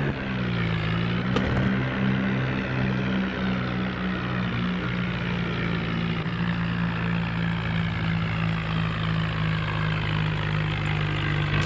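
Tractor engine running steadily at idle, its pitch dipping briefly and recovering about a second in.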